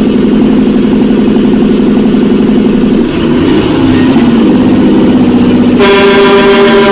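Loud, steady vehicle drone with a steady pitch, with rising and falling pitch sweeps about three seconds in. Near the end a vehicle horn blares with a strong, steady tone.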